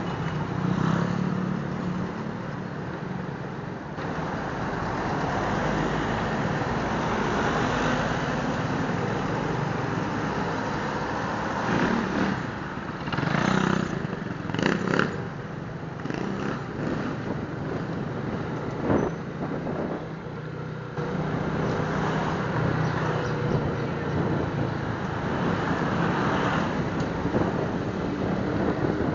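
Suzuki Smash 115's small single-cylinder four-stroke engine running steadily while riding through traffic, under wind and road noise. A few louder rushes of noise come about halfway through.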